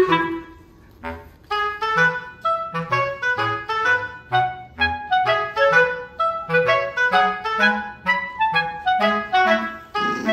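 Background music: a bouncy melody of short clarinet-like notes over a bass line.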